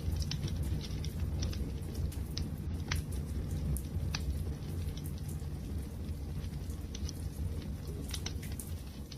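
Wood fire crackling: a steady low rumble of flames with irregular sharp pops and snaps from the burning wood.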